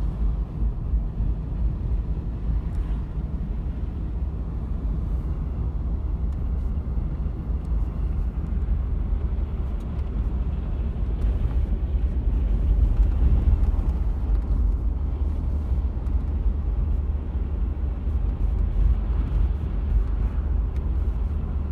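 Hurricane wind blowing hard across the microphone: a loud, steady low rumble of wind buffeting, with a few faint ticks.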